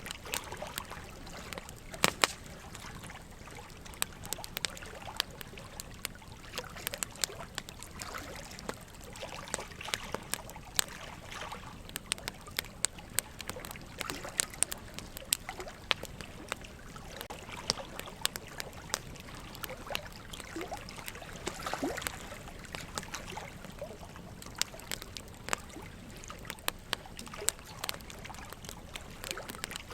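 Wood fire crackling, with frequent sharp pops scattered irregularly, the loudest about two seconds in, over a steady trickle of running water.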